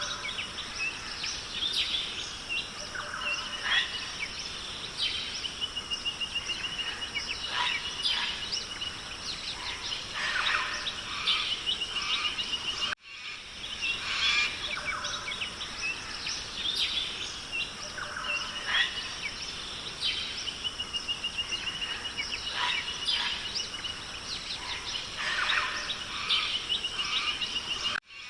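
Forest ambience of many birds chirping and calling, with a rapid trill now and then, over a steady hiss. The same stretch of recording plays twice, cutting out for a moment where it loops.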